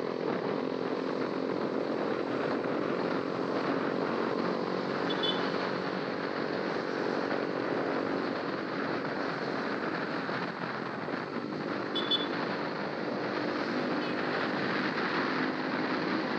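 Honda RS150's single-cylinder four-stroke engine running steadily while riding, with heavy wind rushing over the action camera's built-in microphone.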